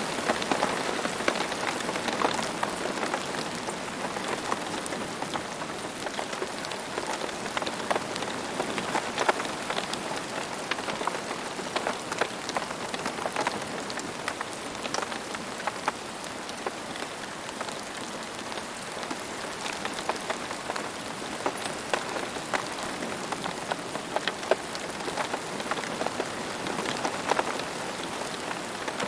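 Steady rain: an even hiss with many individual drops ticking and pattering through it.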